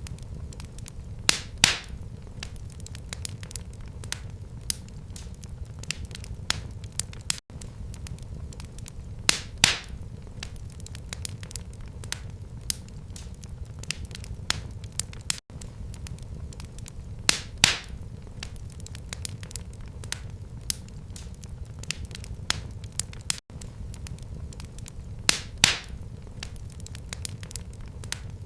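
Wood fire crackling in a fireplace: a steady low rumble of flames with many small crackles, and a louder pair of sharp pops about every eight seconds. The same stretch of sound repeats on a loop of about eight seconds, with a tiny dropout between repeats.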